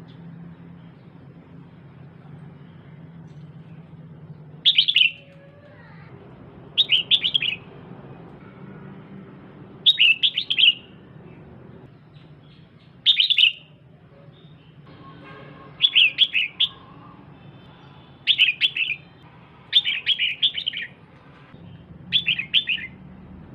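Female red-whiskered bulbul calling in short bursts of rapid chirping notes, each under a second long, eight times with pauses of a couple of seconds between, over a faint low hum.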